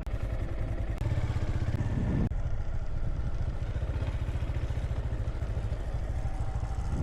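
Honda Grom minibike's single-cylinder engine running as it is ridden, with a short dip in the engine note about two seconds in.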